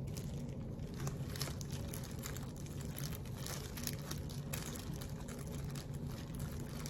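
Soft, irregular rustles and light taps of cucumber strips being laid by hand onto rice on a sheet of laver, over a steady low hum.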